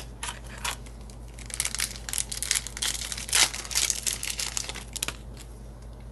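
Foil trading-card booster pack crinkling and being torn open, a run of crackles thickest in the middle few seconds.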